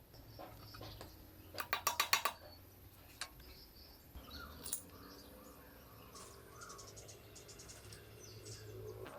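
A ratchet wrench clicking in a quick run of about eight clicks near two seconds in, followed by a couple of single clicks. Faint insects chirp in the background.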